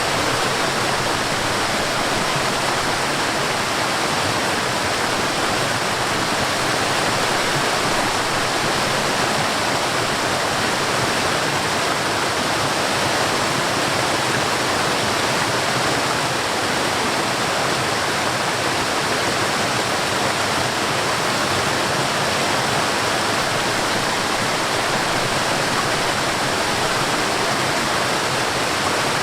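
Mountain stream and waterfall rushing water, a steady unbroken roar.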